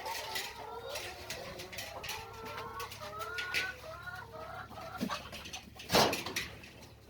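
Several hens clucking, many short calls overlapping; about six seconds in, a brief loud clatter.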